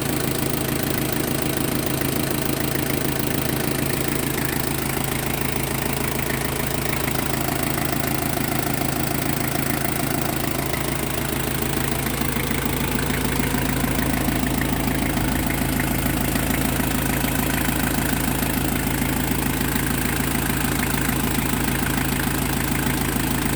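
Mazda Fighter's WL 2.5-litre four-cylinder diesel engine idling steadily, its low note filling out a little about halfway through.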